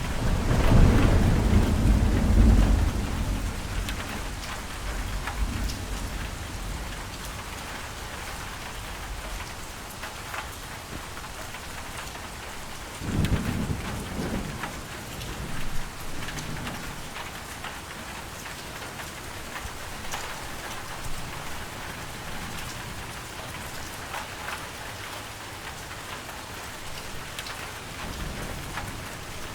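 Steady rain falling, with thunder: a loud low rumble right at the start that fades away over several seconds, and a second, shorter rumble about thirteen seconds in.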